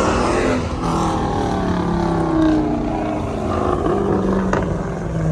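Car engines revving and accelerating as cars pull away, their pitch rising and falling.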